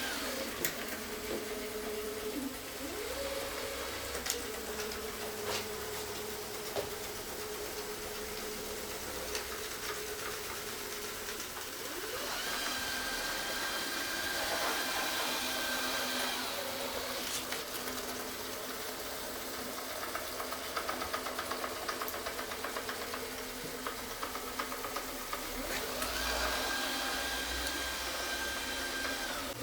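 Rowenta Explorer Serie 60 RR7447 robot vacuum running with a steady motor hum, with sharp ticks here and there. A higher whine comes in twice, in the middle and near the end.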